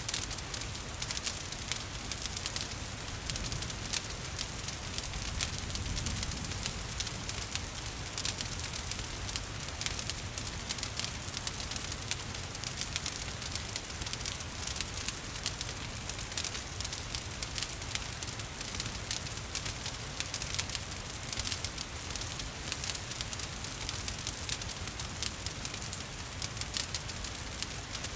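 Wood fire crackling with frequent sharp pops over a steady patter of rain.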